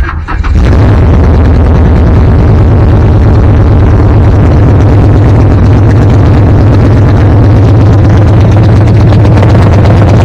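Classic truck engine starting, catching about half a second in and then running steadily, loud and close.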